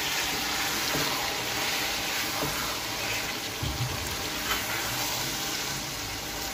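Potato and aubergine curry sizzling in a wok over a low flame, a steady hiss, while a silicone spatula stirs it.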